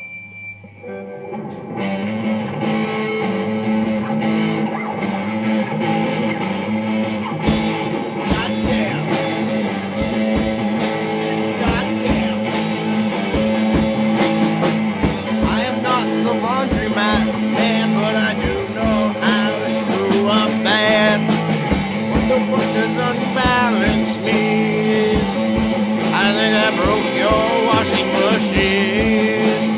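Rock music without lyrics: a band with guitars comes in about a second in, with drum hits joining a few seconds later and a wavering lead line over it.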